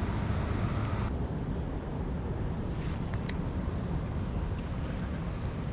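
An insect chirping steadily at a high pitch, about three short chirps a second, over a low, even outdoor rumble. A couple of faint clicks come near the middle.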